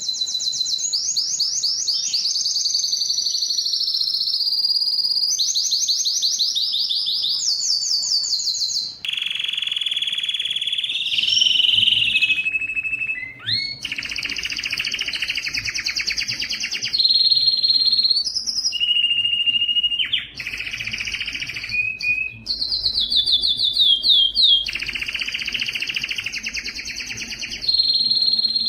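Spanish Timbrado canary singing without pause, a continuous song of rapid metallic trills and rolls that changes phrase every second or two, broken by short held whistled notes.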